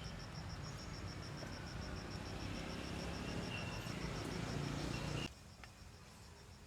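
An insect chirping in a steady high-pitched pulse, about six pulses a second, over a rumbling background noise that cuts off suddenly about five seconds in.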